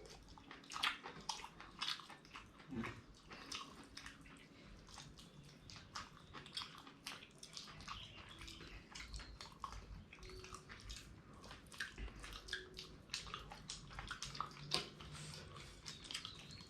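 Close-miked eating of dhido with fish gravy: many soft, irregular wet clicks, squishes and mouth smacks from mixing and chewing the food.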